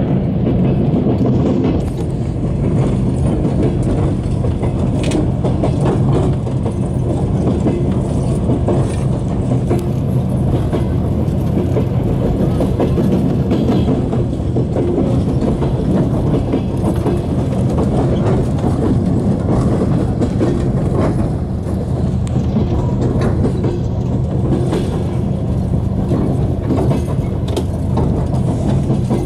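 Passenger rail car rolling along the track into a station, heard from inside the car: a steady low rumble of wheels on rails with a few faint clicks over rail joints.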